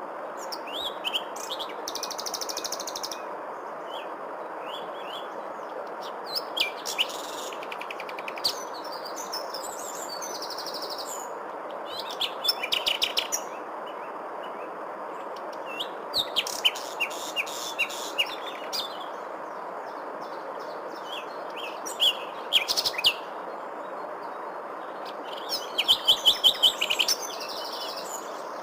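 Songbirds chirping and trilling in short bouts every few seconds, some as fast rapid trills, over a steady even rushing background noise.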